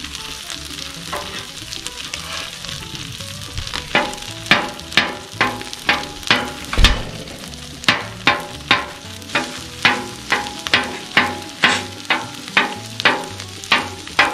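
Sliced mushrooms sizzling as they fry in a hot pan. From about four seconds in, a utensil stirring them strikes the pan about twice a second.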